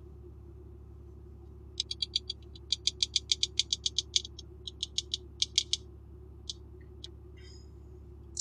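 A quick, irregular run of short, light clicks, several a second for about five seconds, over the steady low hum of the truck cab.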